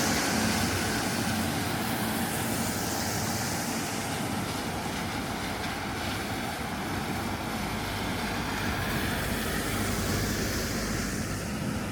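Rainy city street noise: a steady rumble of passing vehicles, with a hiss of tyres on wet road that swells and fades a few times.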